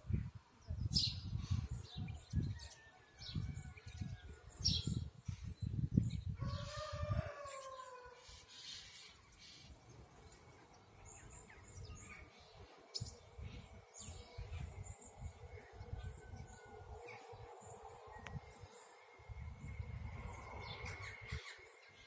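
A flock of birds chirping, many short high calls overlapping, with a longer falling call about six seconds in. Gusts of low rumble come and go, heaviest in the first several seconds and again near the end.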